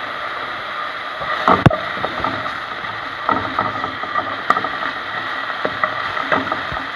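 Chopped onion and tomato paste sizzling steadily in a metal pot, with one sharp knock about a second and a half in and a few lighter clicks and scrapes of a utensil against the pot.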